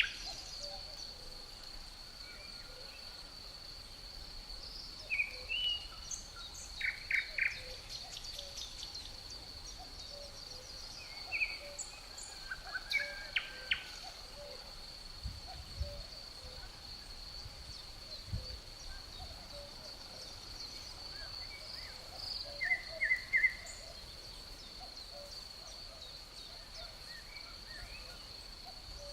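Forest ambience: a cricket trilling steadily on one high pitch, with songbirds chirping in short scattered bursts several times.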